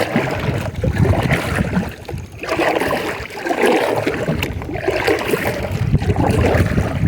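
Kayak paddle strokes swishing through the water, a swell about once a second, over a low rumble of wind buffeting the microphone.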